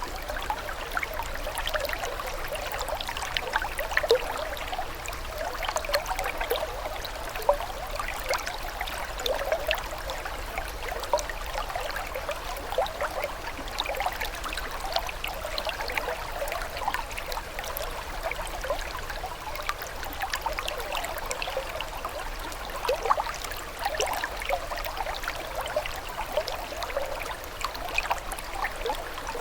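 Water trickling and babbling steadily, like a small stream, with many small splashes and gurgles.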